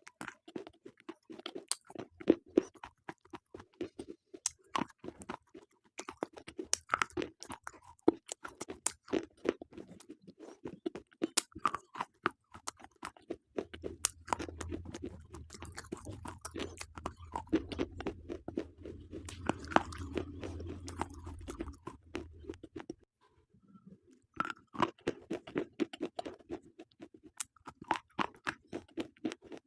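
Slate pencils being bitten and chewed close to the microphone: a dense run of sharp, brittle crunches. A steady low hum sits under the crunching through the middle, and the crunching pauses briefly about three-quarters of the way through.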